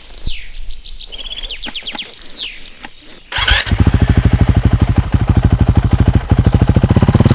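Motorcycle engine starting about halfway through with a sudden burst, then running at a steady idle. Birds chirp before it starts.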